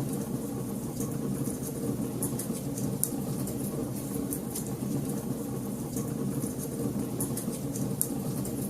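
Wood fire crackling in a fireplace, with frequent irregular sharp pops and snaps over a steady low rumble of the burning fire.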